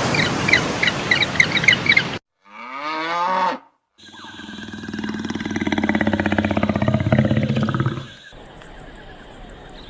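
A sequence of different animal calls: about two seconds of rapid high chirping over noise, a short falling call, then a long, low, pulsing call lasting about four seconds.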